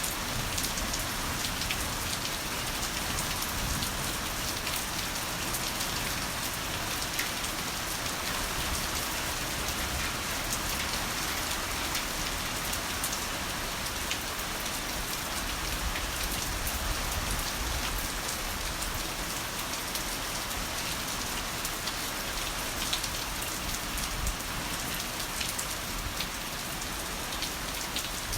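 Heavy rain falling steadily: a dense, even hiss scattered with sharp ticks of individual drops striking a surface.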